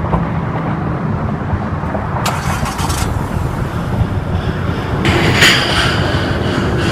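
2014 Scion FR-S's 2.0-litre flat-four boxer engine running steadily, with two brief swells of hiss about two and five seconds in.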